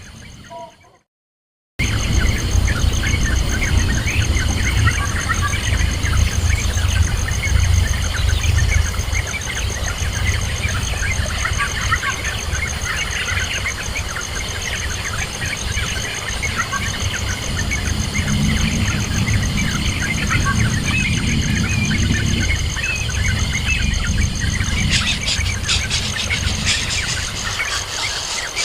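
Many short high chirps, birds calling, over a steady low rumble and a constant high drone like insects. A crackling rustle comes in near the end.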